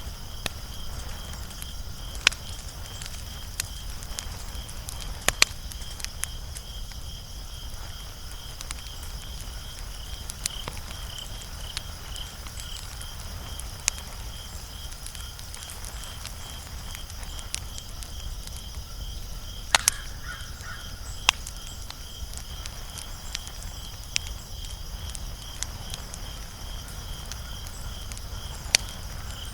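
Wood fire burning with a low steady rush and sparse sharp crackles and pops every few seconds. A steady, high, finely pulsing trill runs underneath.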